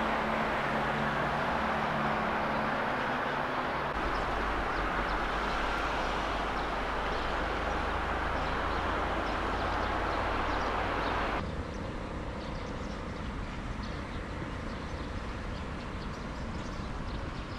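Car driving: steady road and engine noise with a low hum, heard as in-car footage. About 11 seconds in it cuts off suddenly to a quieter steady background.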